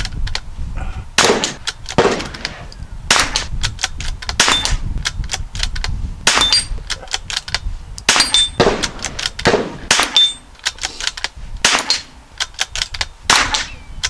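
.22LR rifle shots, about a dozen at an uneven pace of roughly one a second, each a sharp crack. Several are followed by a short, faint high metallic ping from the bullet striking a steel plate.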